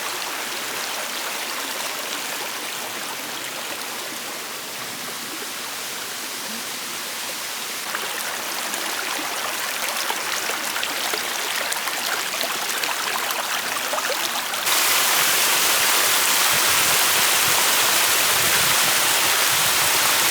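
River water flowing steadily, a constant rushing noise that becomes suddenly louder and brighter about three quarters of the way through.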